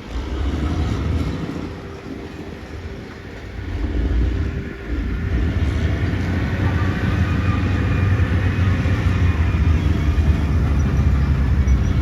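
Caterpillar D6R XL bulldozer's diesel engine running under load with a deep, steady rumble. It eases off for a couple of seconds, then picks up about four to five seconds in and stays louder.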